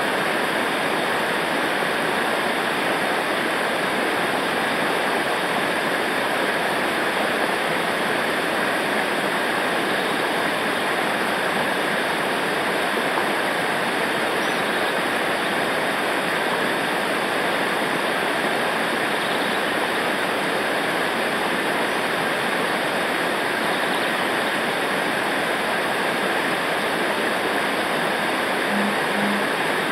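Rushing river water over rapids or a waterfall: a steady, unbroken roar.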